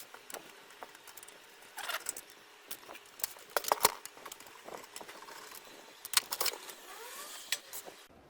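Irregular clicks, clatter and light jingling, like small metal parts or tools being handled, with the loudest cluster of knocks about halfway through.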